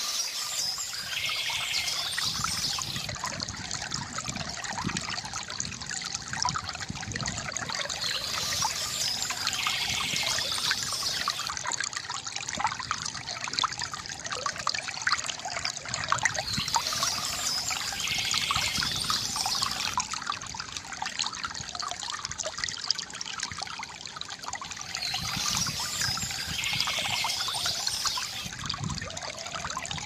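Shallow stream water trickling and splashing over stones, a steady babble with a pattern that repeats about every eight or nine seconds.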